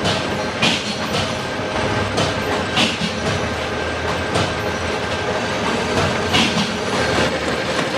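Factory machinery making motorcycle sprockets, running with a steady mechanical din and short sharp metallic bursts every second or two at uneven intervals.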